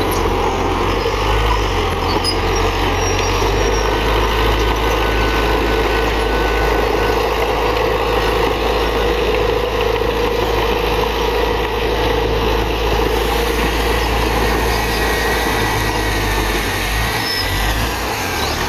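Heavy diesel earthmoving machinery running steadily, a continuous engine rumble with no pauses.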